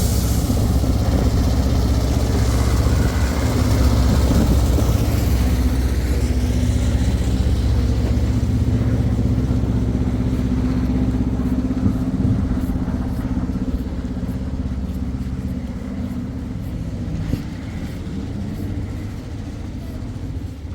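An engine running steadily with a low hum, slowly growing quieter over the second half.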